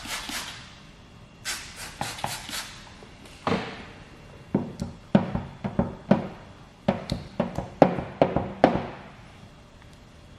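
A hand squeegee working paint protection film down over a wet, tack-solution-coated car panel: a string of short swishing strokes mixed with irregular taps, clicks and squeaks as the squeegee drags over the film and lifts off it.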